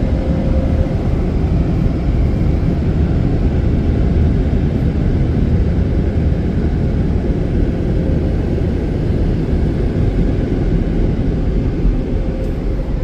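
Premier car-wash blower dryers blowing air over the car in a steady, loud rush with no change in pitch.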